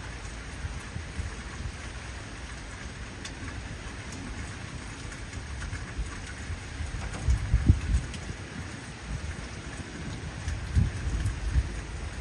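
Heavy rain falling steadily, with low rumbles of thunder swelling up about seven seconds in and again near the end.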